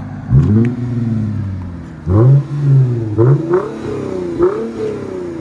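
Lexus IS 250's 2.5-litre V6 through a muffler-deleted exhaust with LCGP resonators, revved in several quick blips, each rising sharply and falling back toward idle.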